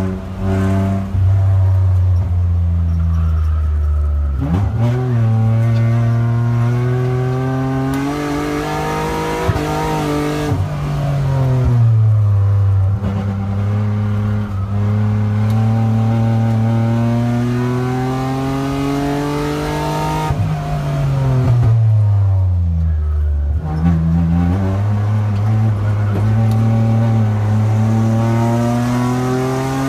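Car engine heard from inside the cabin on a road course, its revs climbing under acceleration and falling away under braking several times, with a long drop about two-thirds of the way through before climbing again.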